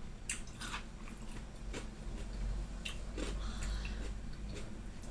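Mouth chewing a bite of gado-gado, the Indonesian vegetable salad with peanut sauce, close to the microphone: scattered wet smacks and mouth clicks over a steady low hum.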